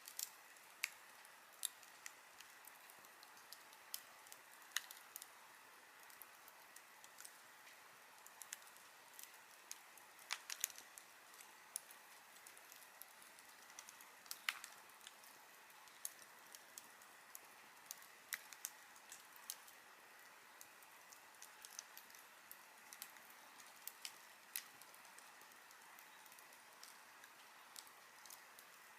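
Wood campfire crackling: irregular sharp pops and snaps, several every few seconds, over a soft steady hiss.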